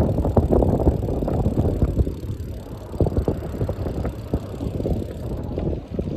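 Wind buffeting the microphone during a bicycle ride: a loud, rough rumble full of irregular crackles.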